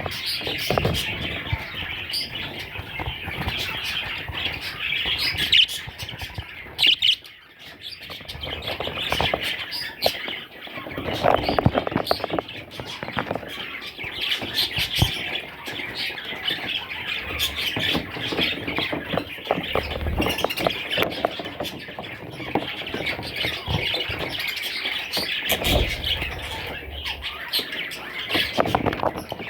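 Budgerigars chattering, with squawks and chirps in a continuous flock babble and a brief lull about seven seconds in.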